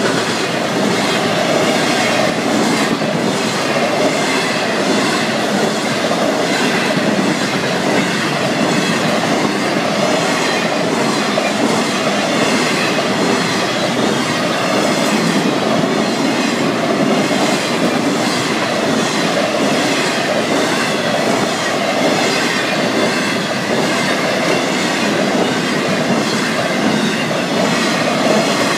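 Florida East Coast Railway freight train's cars rolling steadily past close by, with a continuous rumble of wheels on rail and a regular clickety-clack of wheels passing over the track.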